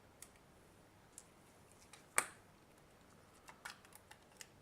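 Scattered small clicks and taps of plastic and metal parts being handled and pried while taking apart a multimeter, with one sharper click a little over two seconds in and a quick cluster of lighter ones near the end.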